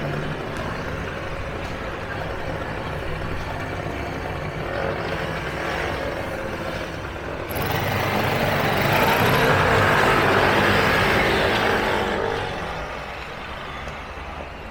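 Street traffic running steadily, with a heavy vehicle passing close about halfway through: a louder rushing swell that lasts about four seconds and then fades back to the traffic.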